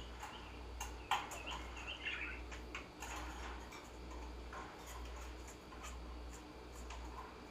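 Small caged birds, finches and parakeets, chirping softly in short wavering notes, busiest in the first couple of seconds, among scattered light clicks and taps. A steady low hum runs underneath.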